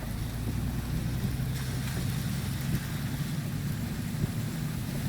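A vehicle's engine hum and road noise heard from inside the cab while driving, with a hiss that grows louder about a second and a half in.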